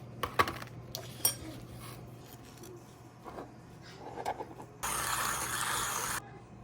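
Sharp clinks and knocks of small hard objects over a steady low hum, then a loud, even rush of noise for about a second and a half near the end.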